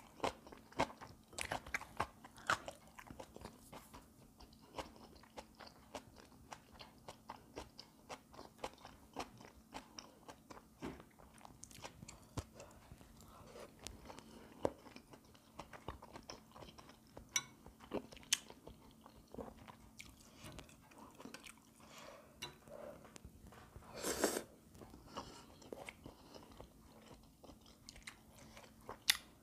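Close-miked chewing and crunching of food, with frequent small wet mouth clicks. One louder, longer burst of noise comes about three-quarters of the way through.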